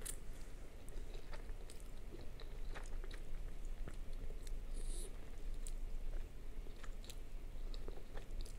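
A person chewing and slurping mouthfuls of Samyang Carbo spicy instant noodles, with many small wet mouth clicks.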